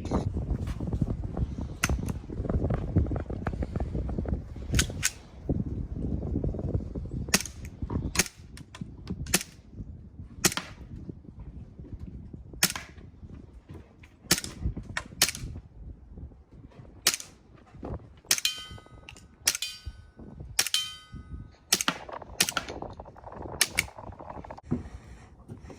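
CO2-powered BB gun firing sharp single cracks at irregular intervals, some in quick pairs and triples. Around two-thirds of the way through, three shots are each followed by a short metallic ring.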